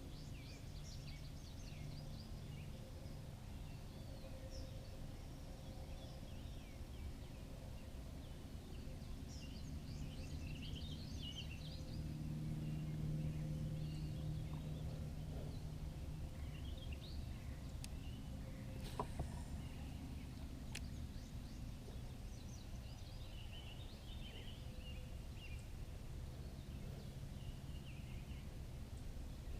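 Birds chirping and calling over a steady low rumble of outdoor background noise, with a few sharp clicks about two-thirds of the way through.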